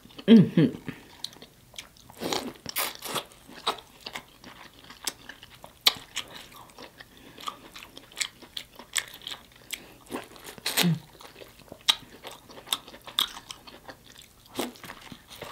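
Close-miked eating sounds: wet chewing, lip-smacking and biting on sauce-covered rotisserie chicken and corn on the cob, heard as a steady run of irregular clicks and smacks. Two short low hums come about half a second in and again near 11 seconds.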